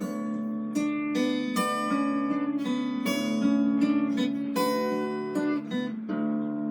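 A plucked stringed instrument played live: struck chords and single notes in a steady rhythm, each ringing on and fading.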